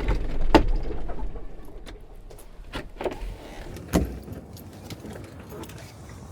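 A few scattered sharp knocks and clicks, the clearest near the start, around three seconds and around four seconds in, over a low rumble that fades away during the first two seconds.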